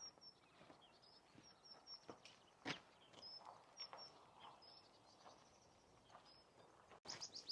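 Near silence: faint outdoor ambience with short, high bird chirps repeating sparsely and a few soft clicks. Near the end, louder sweeping bird calls start.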